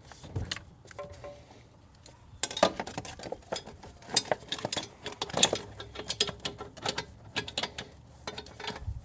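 Raindrops beginning to fall, making irregular sharp taps and clicks that start about two and a half seconds in and keep going.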